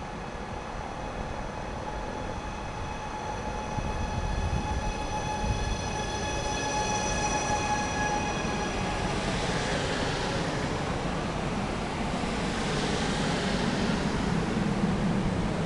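Trenitalia ETR 526 'Trentino' electric multiple unit arriving at a station platform. A steady whine made of several stacked tones runs through the first half, then gives way to the rushing and rumbling of the cars rolling past, growing louder.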